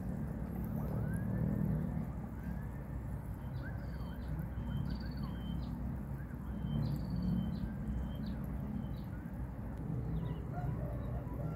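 Small birds chirping in short, high repeated notes, in two bunches around the middle, over a steady low rumble.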